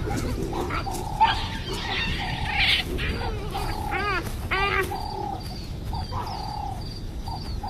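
Wild animal calls: a series of short calls, two sharper ones about four and four and a half seconds in, over faint high bird chirps repeating throughout.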